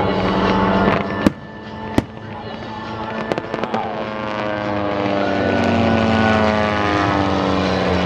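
Pyrotechnic bangs: two sharp reports about a second and two seconds in, then a few smaller cracks. After that a Van's RV-8's propeller engine passes by, its pitch falling steadily.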